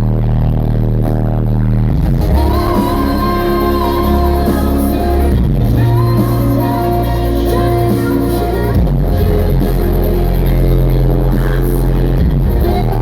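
Live rock band playing loudly, with a female lead singer's sustained sung lines over heavy bass and electronic keyboard sounds.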